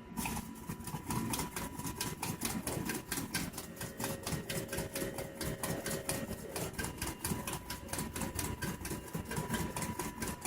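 Small homemade gamma-type Stirling engine running on its heat source after its flywheel is spun by hand, its power piston and linkage clattering in a fast, even rhythm of several clicks a second.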